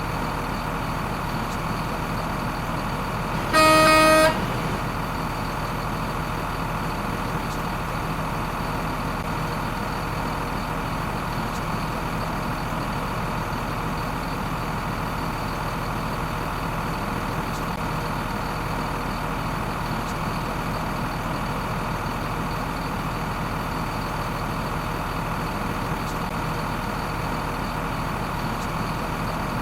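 A vehicle engine running steadily, with one horn honk lasting under a second about three and a half seconds in. The horn is the loudest sound.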